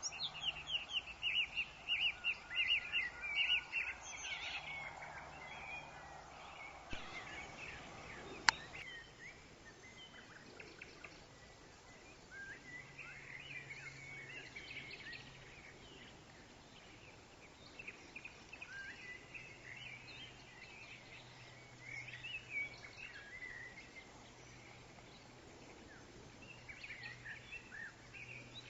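Woodland birds chirping over a soft wash of wind in the trees: a quick run of repeated chirps in the first few seconds, then scattered calls. A single sharp click about eight and a half seconds in.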